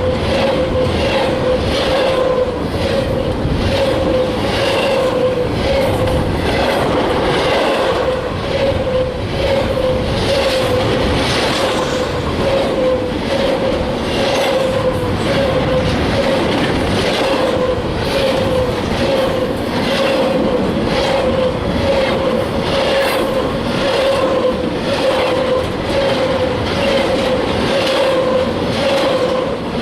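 Freight train cars rolling steadily past, their wheels clicking over the rail joints in a quick repeating rhythm, with a steady tone held throughout.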